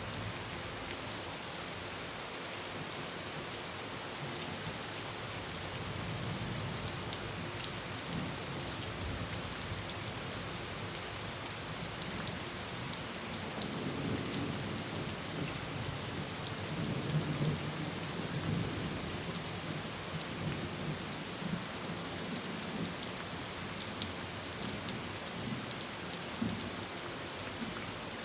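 Heavy rain drumming steadily on a tin roof, with many small drop ticks. A long, low rumble of thunder builds in partway through, is loudest a little past the middle, and dies away near the end.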